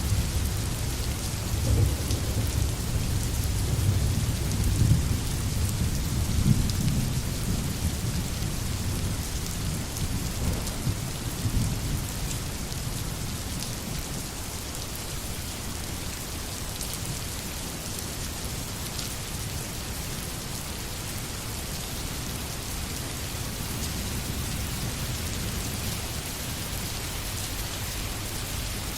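Steady rain falling in a forest, with a low rolling rumble of thunder through the first half that dies away toward the middle.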